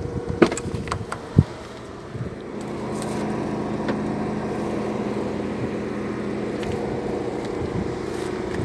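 A few clicks and a knock of the car's doors being unlatched and opened, then a steady engine hum that gets louder about two and a half seconds in and holds.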